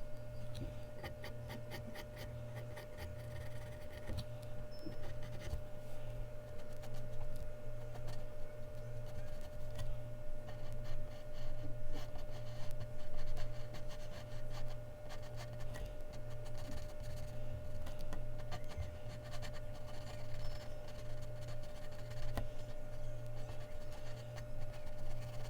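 Mechanical pencil scratching on Bristol paper in many quick short strokes, over a steady low hum.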